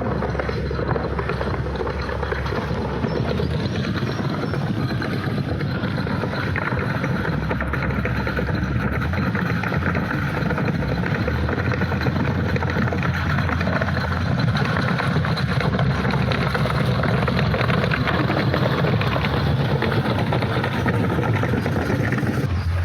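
Steady outdoor ambient noise: a continuous low rumble with an even hiss above it, slightly louder in the second half.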